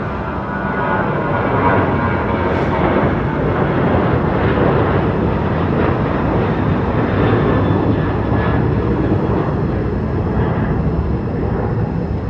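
Boeing 737-800 jet airliner departing, its twin CFM56-7B turbofan engines at takeoff thrust: a loud, steady jet roar and rumble.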